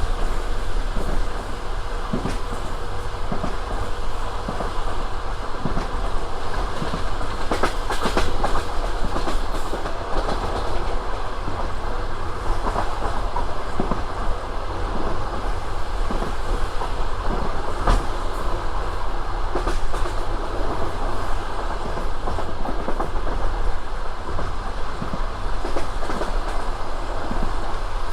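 Passenger train carriage running along the line: a steady rumble of the wheels on the rails, with the clickety-clack of wheels knocking over the rail joints every few seconds.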